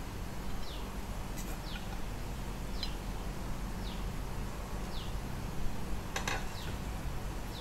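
A bird chirping, short high falling chirps about once a second, over a steady low hum. There are a few sharp clicks, the loudest about six seconds in.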